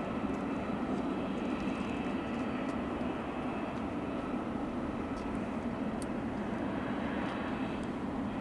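Jet airliner engines running steadily: a broad rumble with a few thin, high whining tones on top.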